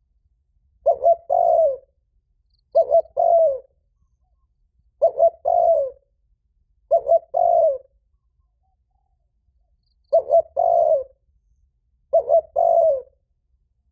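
Spotted dove giving its loud, ringing territorial challenge coo: six phrases, each two short notes followed by a longer falling note, repeated about every two seconds with one longer pause midway.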